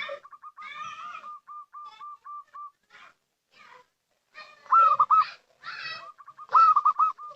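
Zebra dove cooing: a long run of rapid, evenly spaced staccato notes, about five a second, then two louder quick clusters of notes a second and a half apart. Other bird calls with a rougher tone sound between the runs.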